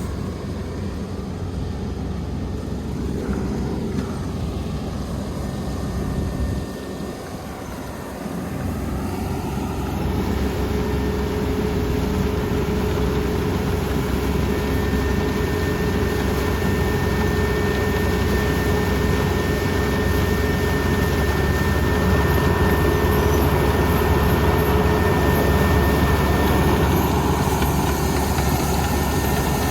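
Kubota ER470 combine harvester's diesel engine and machinery running steadily. About ten seconds in it grows louder and a steady whine joins it.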